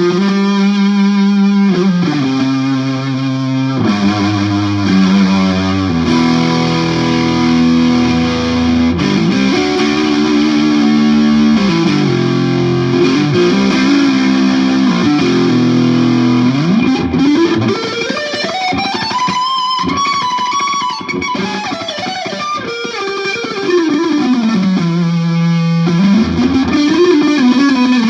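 Electric guitar, a 1967 Gibson SG with P90 pickups played through a Marshall JCM 2000 amp with distortion and pedalboard effects, playing held notes and chords. Past the middle a note glides up in pitch for a few seconds and back down, and near the end another rises and falls.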